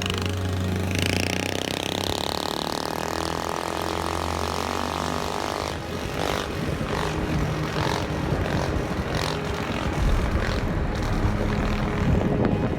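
Small mini-bike engine running and revving, its pitch sweeping up and back down over the first few seconds, then running on more roughly.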